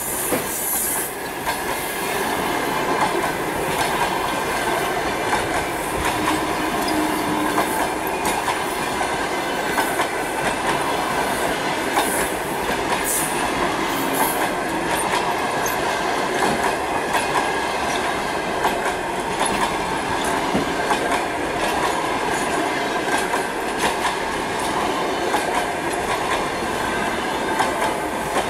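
Passenger coaches of a long train rolling past: the wheels click over rail joints on top of a steady rumble, with steady high tones running through it.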